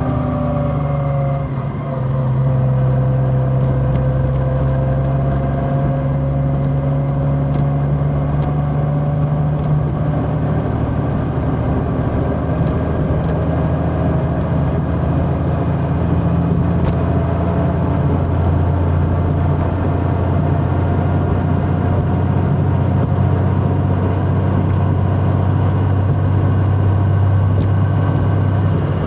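Large motorcycle engine running under way, with wind and road noise; the engine note falls and dips briefly about two seconds in, then holds steady.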